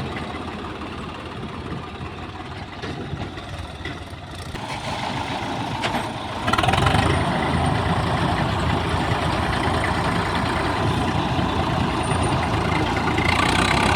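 Tractor diesel engine running, turning clearly louder and heavier about six and a half seconds in, then holding steady.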